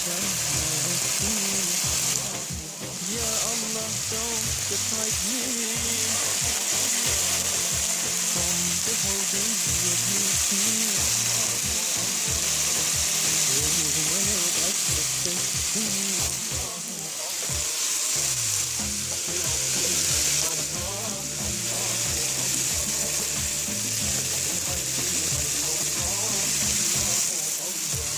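Soaked bulgur with browned vermicelli and onion frying in hot oil in a pot while being stirred, a steady sizzling hiss with a couple of brief lulls.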